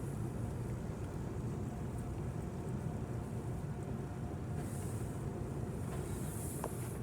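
Steady low rumble of a car idling, heard from inside the cabin, with faint hissing twice in the second half.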